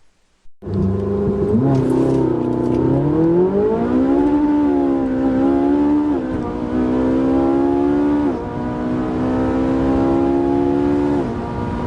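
Ferrari 458 Italia's naturally aspirated 4.5-litre V8 accelerating hard. Its engine note rises, then drops sharply three times as it shifts up through the gears.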